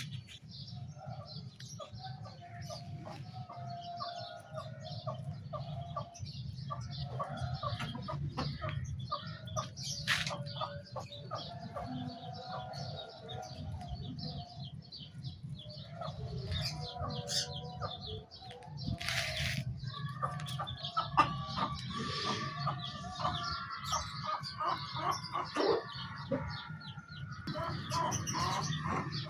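Chickens clucking on and off, with a few sharp knocks, over a steady low hum.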